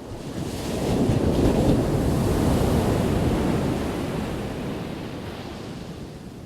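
One ocean wave crashing: the surf noise swells up over about a second, peaks, then slowly washes away over the next few seconds.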